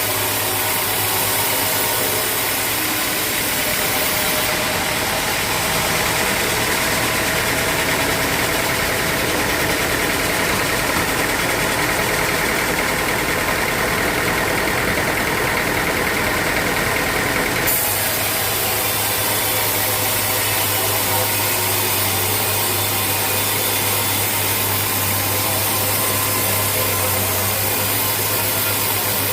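Sawmill machinery running steadily: a continuous engine-like drone with a low hum beneath. The sound changes abruptly about four seconds in and again a little past halfway.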